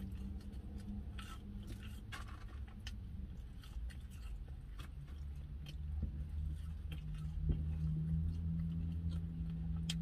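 Close-up chewing and mouth sounds of someone eating curly fries, with scattered small crunches and smacks. A low steady hum underneath gets louder from about six seconds in.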